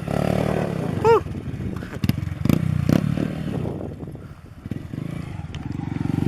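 Small motorcycle engine running and revving, easing off about two-thirds of the way through and picking up again near the end. Two short rising-and-falling squeals, one at the start and one about a second in, and a few sharp clicks.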